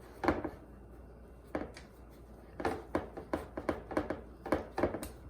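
Soft, irregular knocks and slaps as dough is laid into an oiled baking pan and handled, with a quick run of taps in the middle.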